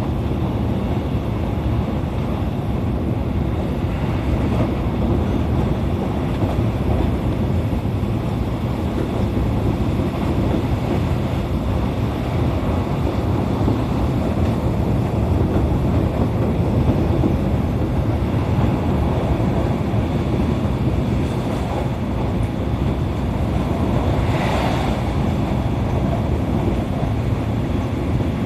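Running noise of a JR East E531-series electric multiple unit heard from inside the passenger car: a steady low rumble of wheels on rail. A short brighter hiss rises over it near the end.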